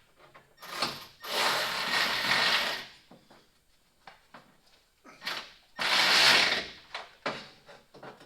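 A handheld power driver running nuts down onto headlight mounting studs in two runs, the first nearly two seconds long and the second about a second, with small clicks of handling in between.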